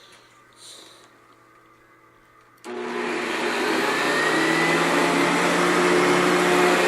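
Kirby Classic Omega upright vacuum cleaner switched on about two and a half seconds in, starting suddenly, its motor whine rising as it spins up, then running steadily and loud.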